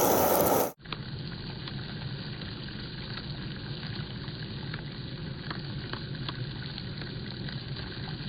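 Food frying in a pan, a steady sizzle with scattered small crackles and pops. It follows a brief louder rush of noise that cuts off abruptly under a second in.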